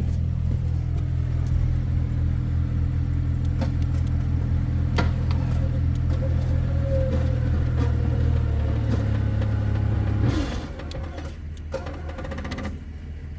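An engine runs steadily under load, with a few knocks, then stalls about ten seconds in and leaves a quieter hum. It is a stall during a stuck-vehicle recovery, after which the operator doubts the engine will restart.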